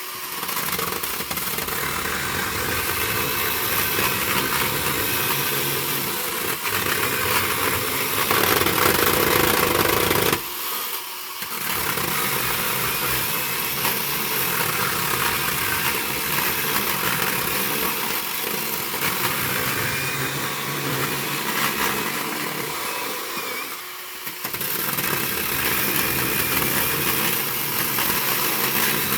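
A motor running loudly and steadily, briefly dropping off twice, once near a third of the way in and once near the end.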